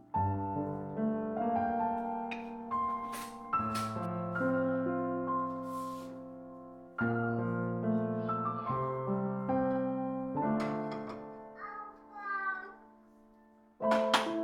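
Slow, gentle piano music with sustained notes, with a few short sharp clicks heard over it.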